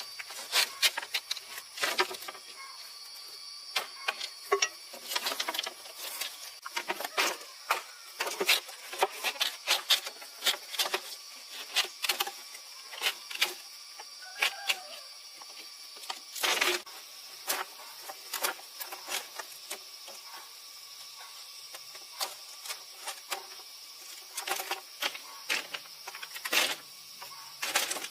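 A rapid, irregular series of sharp knocks and clicks, loudest about 16 and 26 seconds in, over a steady faint high-pitched tone.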